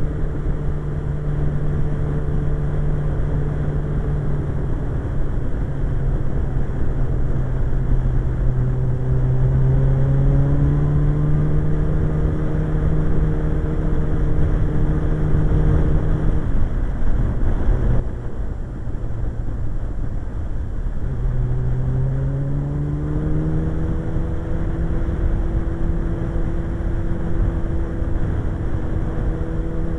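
Suzuki GSX-R1100 motorcycle's inline-four engine running at road speed. The engine note rises, drops off briefly about 17 seconds in, then climbs again and holds steady.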